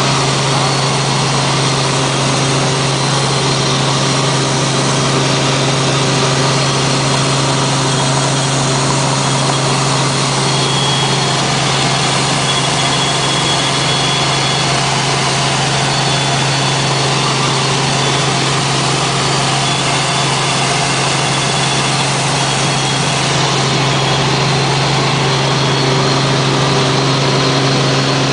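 Helicopter in flight: a loud, steady engine and rotor drone with a constant low hum and a few steady higher tones over it.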